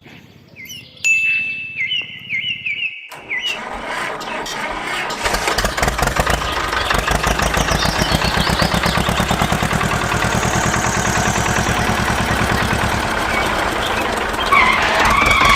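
A few short falling chirps, then a tractor engine starts about three and a half seconds in and keeps running with a fast, steady chug.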